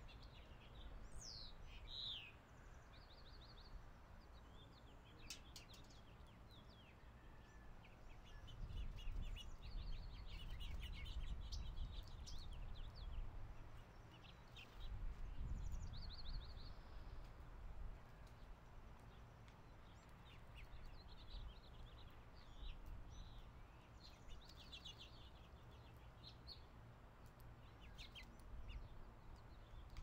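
Small songbirds chirping: short high chirps and quick trills scattered throughout, with a falling call about a second in, over a faint low rumble that swells a few times.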